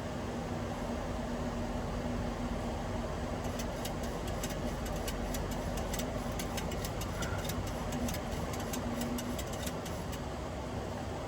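Steady flight-deck noise of a Boeing 737-800 in flight: a rush of airflow and engine and air-conditioning noise with a steady low hum. From a few seconds in until near the end, a run of irregular sharp ticks sounds over it.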